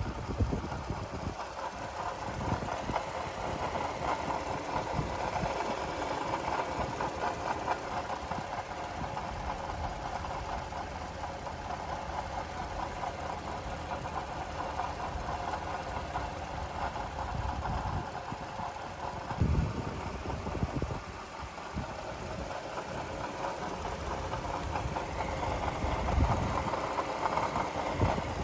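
Toyota Estima GSR55W's 2GR V6 engine idling steadily with an abnormal mechanical noise, which the owner puts down to a failing water pump.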